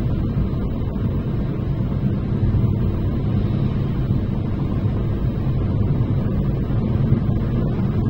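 Steady low rumble of a car on the move: road and engine noise, even throughout.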